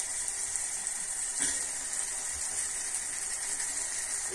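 Raw chicken pieces sizzling in hot oil and onion-tomato masala in a cooking pot, a steady high hiss.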